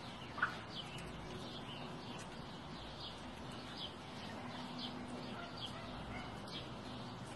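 Birds chirping: short, high, falling chirps repeated about once a second, with one louder, lower chirp about half a second in.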